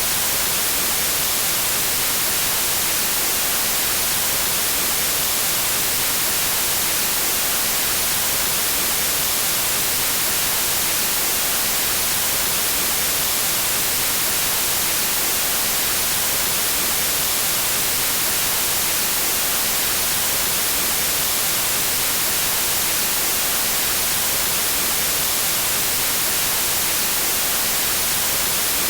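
Synthetic white noise: a steady, even hiss across the whole frequency range, brightest in the treble, with no change at all.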